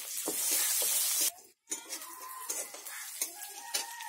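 Sliced onion and green chillies sizzling in hot oil in a steel kadai, stirred with a metal spatula. The loud sizzle cuts off suddenly about a second in; after a short gap a quieter sizzle returns with a few clicks of the spatula against the pan.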